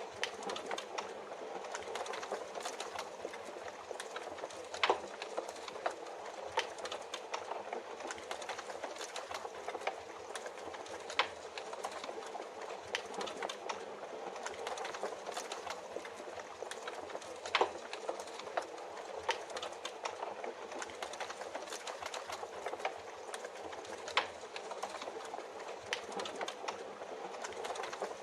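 Wood fire in a fireplace crackling, with a steady hiss of rain behind it and a sharper pop every few seconds.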